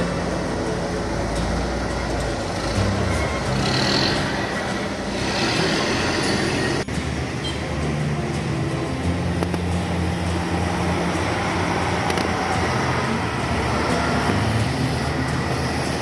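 Tour bus engines running, a steady low drone with traffic noise over it, broken off sharply for a moment about seven seconds in.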